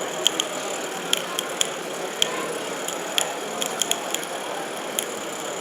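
Gauge 1 model tram running on its track: irregular sharp metallic clicks, several a second in clusters, over a steady hiss.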